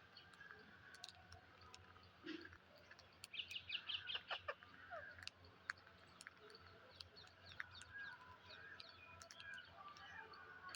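Parrots calling faintly: scattered short chirps and squawks, with a loudest burst of rapid clicks and chatter about three to four seconds in.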